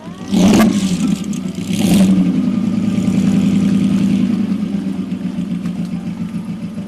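Car engine revved hard twice in quick succession, then running steadily as the sound slowly fades away.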